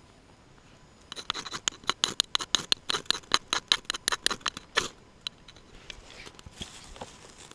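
A rapid run of sharp clicks, about seven a second, lasting nearly four seconds, then a few scattered clicks.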